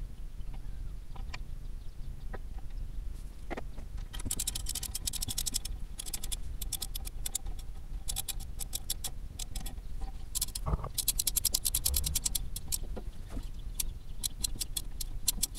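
Ratchet wrench clicking in quick runs of back-and-forth strokes, with a few single knocks before, as the new brake caliper bolts are wound in and tightened.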